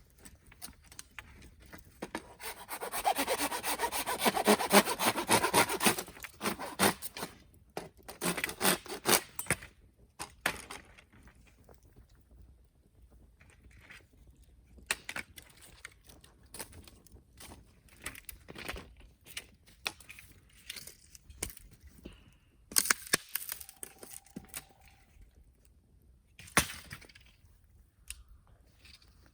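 Hand saw cutting bamboo: a run of rapid strokes starting about two and a half seconds in and lasting a few seconds, then shorter bursts, followed by scattered knocks and scrapes of wood.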